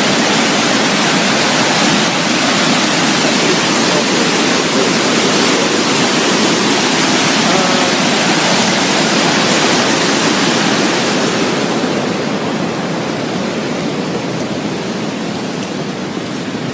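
Steady, loud rush of a large waterfall: falling water making an even roar with no rhythm. About twelve seconds in, the hiss in the upper range fades and the sound becomes duller.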